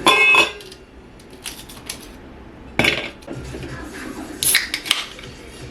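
Dishes and cutlery clinking and clattering: a ringing clink at the start, a knock about three seconds in, and a couple of quick clatters near the end.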